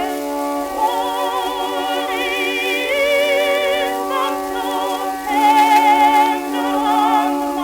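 Early acoustic-era shellac record playing: held notes with wavering vibrato over a sustained low note, thin in the bass.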